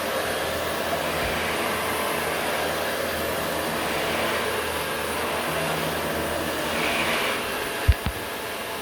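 Vacuum cleaner running steadily, with two short low thumps close together a little before the end.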